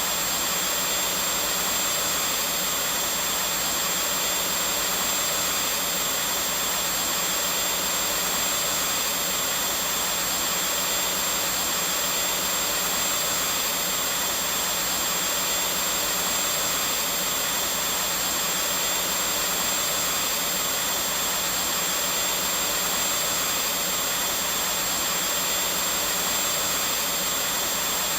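Vacuum cleaner running continuously, an even, unchanging whooshing hiss with a steady motor hum.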